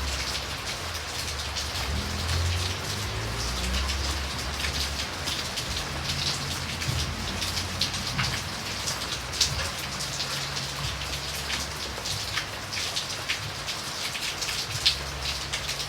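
Steady rain falling: a continuous hiss dotted with many sharp ticks of single drops striking, over a low rumble.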